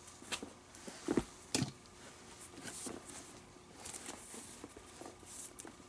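Handling of a leather baseball glove during relacing: scattered light clicks and rustles, with two louder knocks about a second and a half second apart early on.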